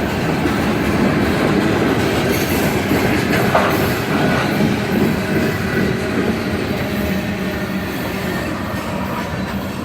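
Railroad cars rolling past with a steady rumble and clickety-clack of wheels over the rails, growing gradually quieter toward the end. A brief wheel squeal comes about three and a half seconds in.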